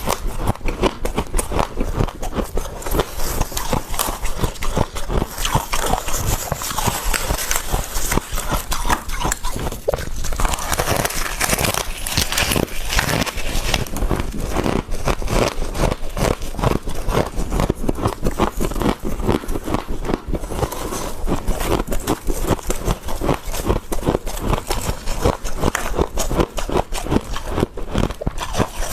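Freezer frost being bitten and chewed close to the microphone: a dense, continuous run of rapid, crisp crunches.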